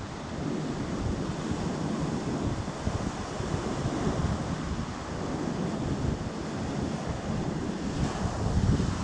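Sea waves washing onto the shore, with wind buffeting the microphone in uneven gusts.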